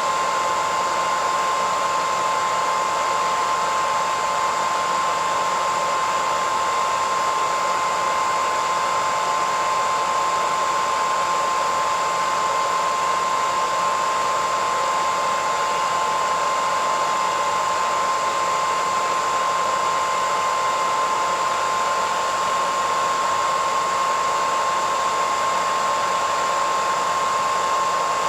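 Hair dryer running steadily: an even rush of blown air with a constant high whine from its motor and fan.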